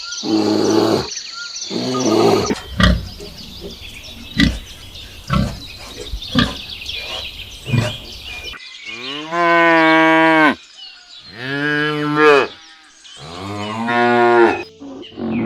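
A sequence of animal calls: two short harsh calls, then a run of short sharp sounds, then three long drawn-out calls that rise and fall in pitch, each lasting a second and a half to two seconds.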